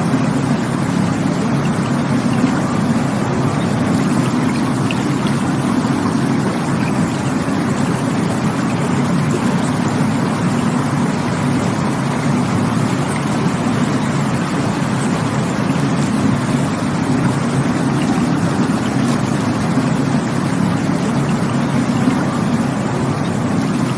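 Steady rushing water from a stream or waterfall, a continuous even roar with no breaks.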